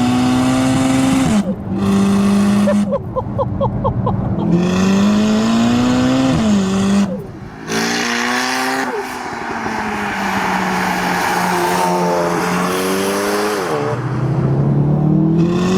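Modified Mk7 VW Golf R's turbocharged four-cylinder engine pulling hard. The revs climb and drop sharply at each gear change, three times. About three seconds in comes a rapid run of crackles on the exhaust.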